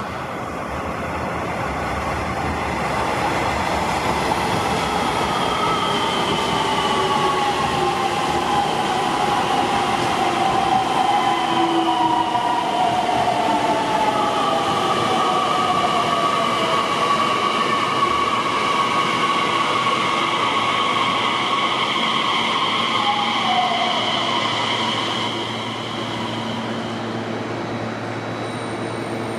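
Nishitetsu 3000 series six-car electric train pulling into a platform and braking to a stop: a whine falling in pitch as it slows, steady high tones as it creeps in, then a low steady hum once it stands, about 25 seconds in.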